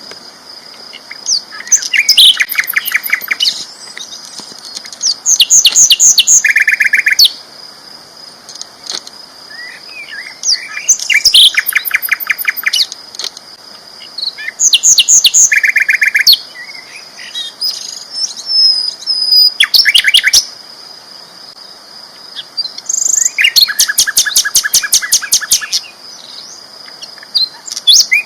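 Sikatan londo, a flycatcher, singing loudly in repeated phrases of fast, rapidly repeated notes, each phrase lasting one to two seconds with short pauses between. A steady high thin tone runs beneath the song.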